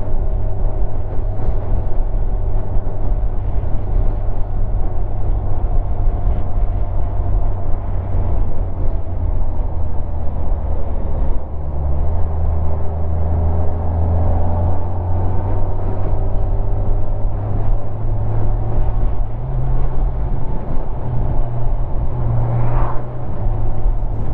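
Kawasaki motorcycle riding along, engine running steadily under a constant rush of wind and road noise. The engine note changes about halfway through and again shortly before the end.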